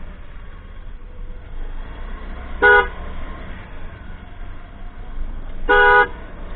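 A vehicle horn honking twice, a short toot and then a longer one about three seconds later, over the steady low rumble of a motorcycle ride.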